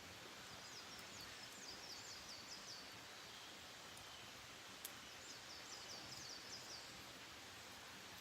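A distant small songbird sings two short phrases of quick repeated high notes, the second a few seconds after the first, over a quiet outdoor hiss. A single sharp click comes about halfway through.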